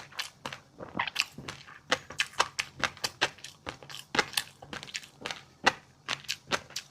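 Close-miked chewing of a fish roe dish: a dense, irregular run of sharp crackles and pops as the roe and crunchy seafood are bitten and crushed.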